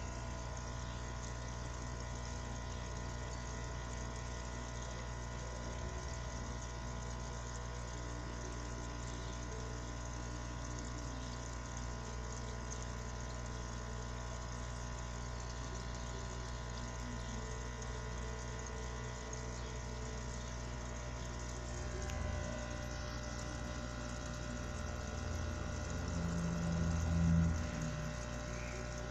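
Aquarium pump or filter running with a steady hum and a trickle of water. A louder low rumble swells near the end and then drops back.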